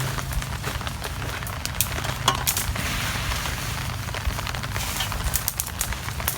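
Meat sizzling over a campfire, with many scattered sharp crackles and clicks over a steady low rumble.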